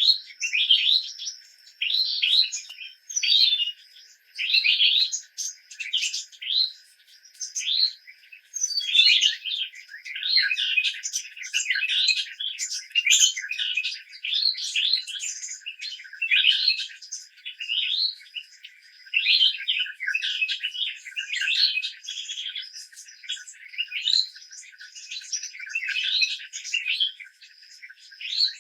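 Birds chirping in quick, repeated short calls, one after another, with a thin steady high tone running behind them.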